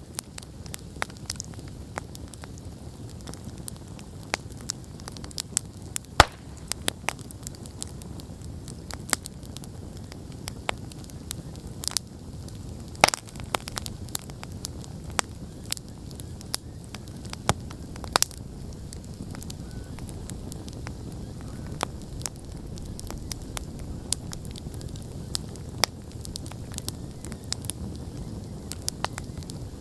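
Wood campfire burning: a steady low rush of flames with irregular sharp crackles and pops, a few louder pops standing out.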